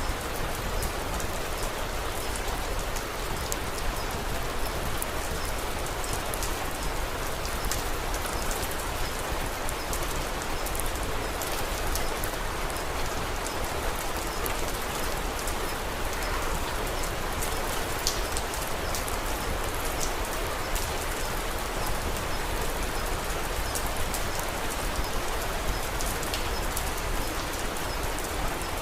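Steady rain: a dense, even hiss with scattered sharp ticks.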